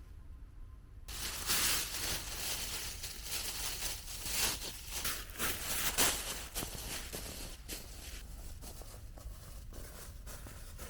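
Irregular crunching and rustling in snow, starting about a second in after a quiet moment, heaviest early on and easing off toward the end.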